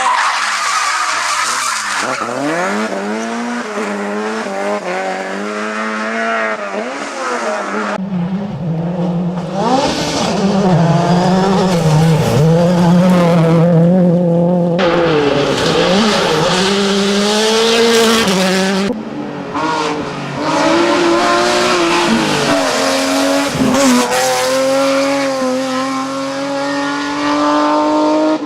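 Competition cars driven flat out: engines revving up and down through gear changes, with tyres squealing, in several short passes cut one after another.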